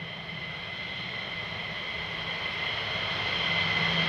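Military jet engine running with a steady high-pitched whine over a low hum, slowly growing louder.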